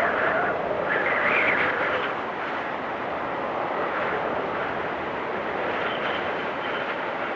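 Blizzard wind blowing, a steady rushing noise that swells in gusts around the first two seconds. A faint thin whistle comes in near the end.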